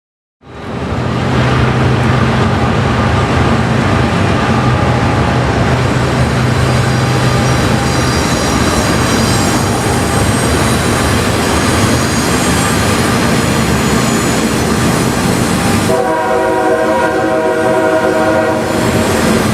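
A freight train with diesel locomotives running loud and steady, beginning abruptly about half a second in. About 16 seconds in, a locomotive's multi-note air horn sounds for about three seconds.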